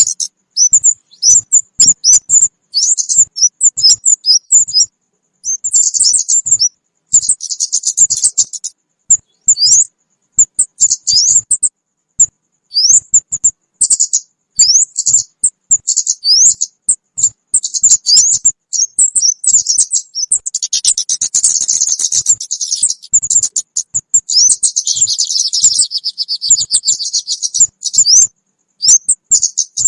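Kemade bird calls played as a trapping lure: bursts of rapid high chirps and short upward-sweeping notes, with a denser stretch of chattering about two-thirds of the way through.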